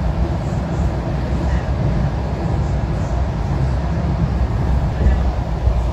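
Steady low rumble of a Soviet-era passenger train carriage running along the rails, heard from inside the car.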